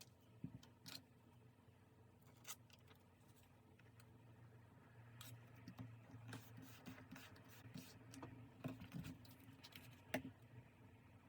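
Faint scattered clicks, taps and light scratching of paper and stationery being handled on a desk, growing busier about halfway through, with one sharper click near the end.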